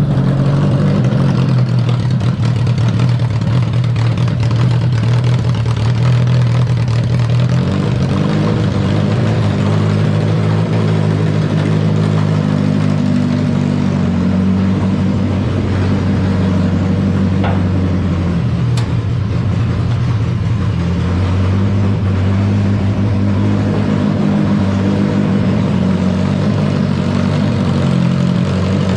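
Motorcycle engine mounted in a car, running loud through separate, loosely fastened exhaust pipes, its speed rising and falling a little as it is held and revved.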